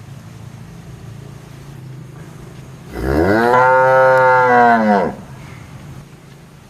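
A cow gives one long moo, about two seconds, rising in pitch at the start and falling away at the end.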